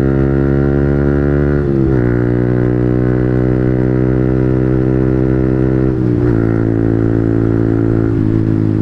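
Yamaha MT-15's single-cylinder engine, breathing through an aftermarket Yoshimura Alpha slip-on muffler, idling with a steady, bassy note. The pitch wavers slightly a few times.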